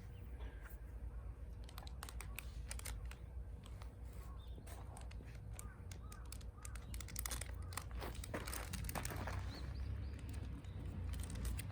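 Irregular sharp crackles and snaps of small pieces of wood, thickening about two-thirds of the way in, over a steady low rumble.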